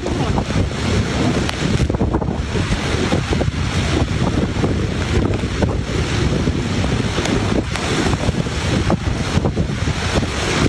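Typhoon gale winds blowing hard and buffeting the microphone: a loud, continuous rush of noise that swells and eases in gusts.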